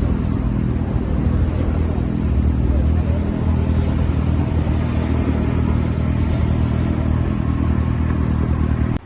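A steady, loud low motor hum with a rumble, like a vehicle's engine running, that cuts off suddenly near the end.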